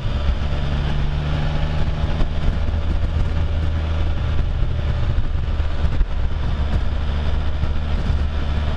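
Can-Am Spyder F3's three-cylinder engine running at a steady cruise under wind rush. Its low engine note loosens for a few seconds in the middle and settles back to a steady drone near the end.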